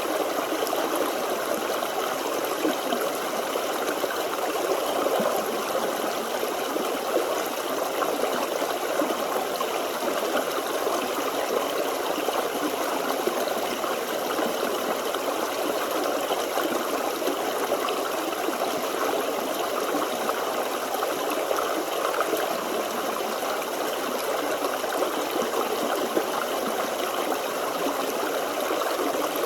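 Forest stream flowing and babbling over stones, a steady rush of water with no break or change.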